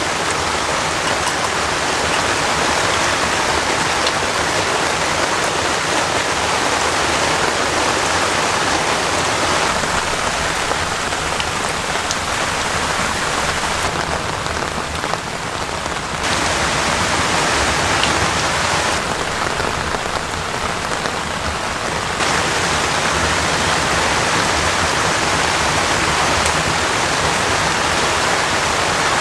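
Heavy rain falling steadily, a dense even hiss, with its tone changing abruptly a few times around the middle.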